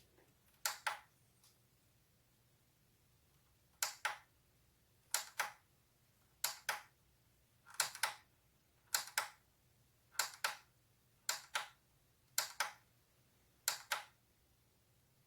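Ten sharp double clicks, each a pair of quick clicks like a small switch being pressed and released. One comes near the start, then after a pause of about three seconds they repeat steadily about every second and a quarter.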